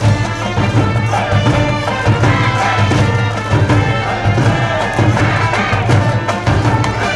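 High school brass band playing a cheering tune with a steady drumbeat.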